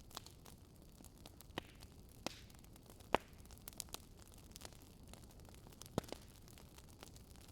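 Wood fire crackling: scattered sharp pops and snaps over a low steady hiss, the loudest pop about three seconds in and another about six seconds in.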